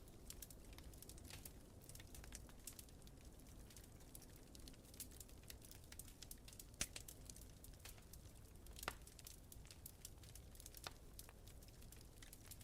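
Wood fire crackling quietly, with a steady scatter of small pops and two louder pops about seven and nine seconds in, over a low steady rumble.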